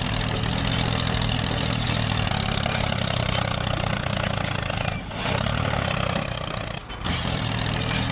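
Small motor of a DIY mini tractor running steadily, with a rapid pulsing hum and brief dips about five and seven seconds in.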